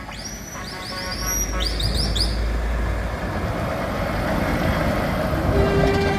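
Heavy trucks driving past: a deep diesel engine rumble and a swelling wash of tyre and road noise. A quick run of about ten short, high chirps in the first two seconds.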